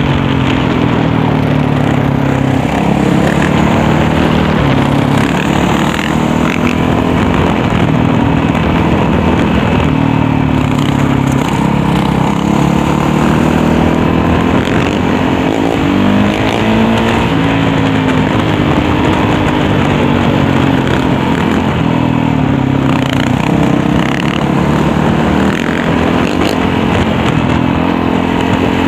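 Dirt bike engine revving up and down over and over, running continuously as the bike is ridden through wheelies.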